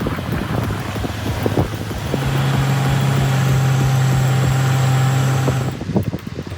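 Heavy truck diesel engines working under load. Rough rumbling with knocks at first, then a steady deep drone from about two seconds in that cuts off abruptly near the end.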